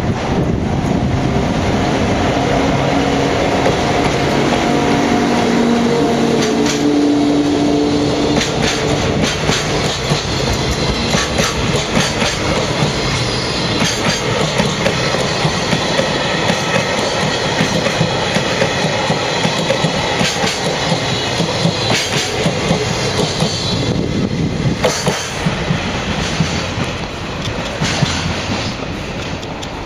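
Freight train passing close by, loud and continuous. A whine of steady tones runs through the first several seconds, then the wagons' wheels clatter over the rail joints in quick clicks.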